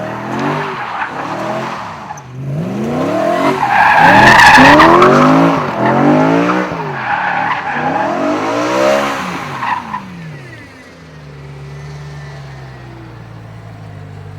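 A car doing donuts: its engine revs up and down again and again while the tyres squeal, loudest about four seconds in. After about ten seconds the engine drops to a steady low note.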